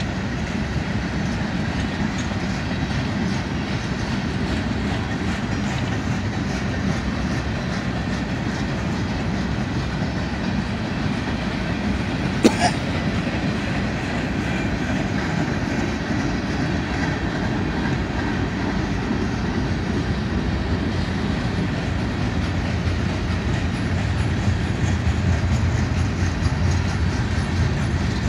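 Freight cars of a slow manifest train rolling past, wheels running steadily over the rails with a continuous rumble. A single sharp knock about halfway through, and the low rumble grows heavier near the end.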